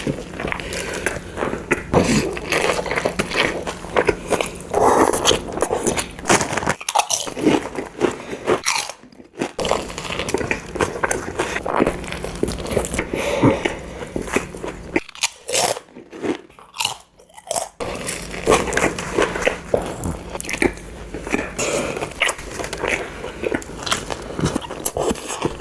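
Biting into and chewing a Publix sub sandwich: crunchy bites and chewing, with a few short pauses.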